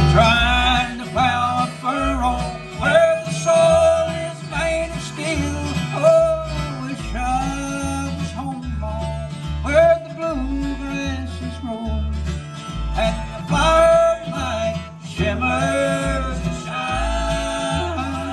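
Bluegrass band playing live, an instrumental break with a lead instrument carrying the melody over acoustic guitar and a steady walking bass.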